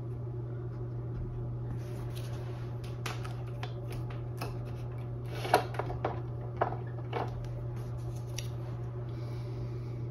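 A paintbrush loaded with white paint being tapped and dabbed, giving a scatter of light taps and scrapes, the sharpest about halfway through, over a steady low hum.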